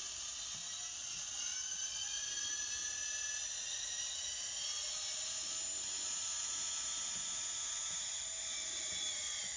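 Simulated diesel locomotive engine sound from an XL Systems sound decoder in an N scale Kato SD70, played through the model's tiny speaker as the locomotive is run forward. It is a steady whine and hiss with several high tones slowly gliding in pitch, and almost no bass.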